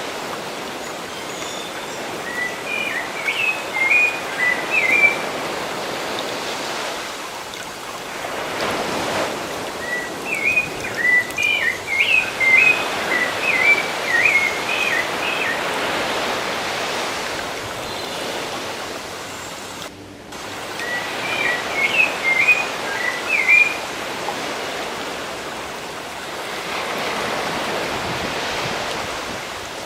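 Ocean surf washing ashore in slow swells, with a songbird singing three bouts of quick, chirping phrases over it. There is a momentary gap in the sound about two-thirds of the way through.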